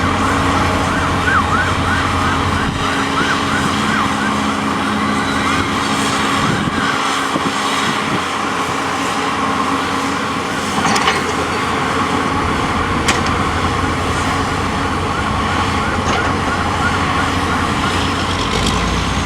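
An emergency-vehicle siren on a fast yelp, its pitch sweeping up and down about two or three times a second, heard in the first few seconds and again near the end. Under it runs a steady rumble of vehicle and machinery noise.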